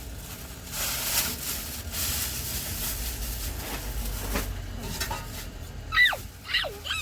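Three quick, high animal cries near the end, each falling steeply in pitch, after a stretch of rustling noise.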